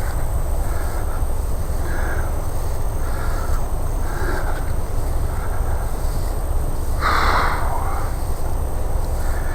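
A bird calling in a series of short, repeated calls, one much louder about seven seconds in, over a steady low rumble.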